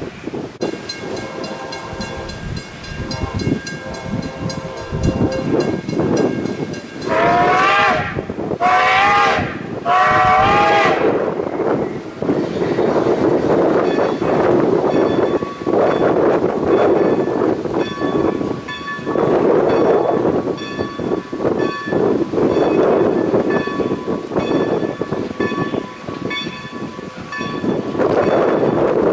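A train passing: a bell rings steadily, then three wavering whistle blasts sound, and the train rolls by with a steady rumble while faint ringing continues.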